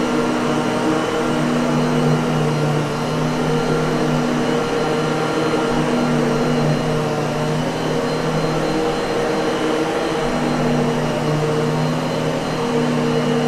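Miele vacuum cleaner running steadily: a constant hum over rushing air, its tone wavering slightly partway through.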